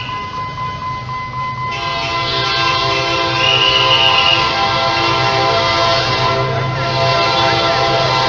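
Train horn sounding in a long, held blast over the low rumble of the train. The horn's tone thickens abruptly about two seconds in, and a short higher tone rises over it near the middle.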